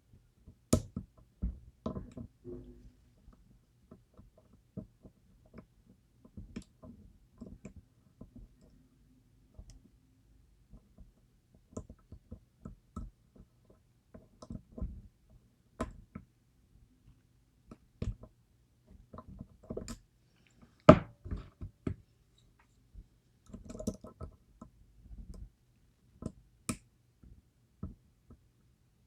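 Metal lock pick and turning tool working the pins inside a DOM IX Twinstar lock: small, irregular clicks and taps, a few louder, with the loudest about two-thirds of the way through.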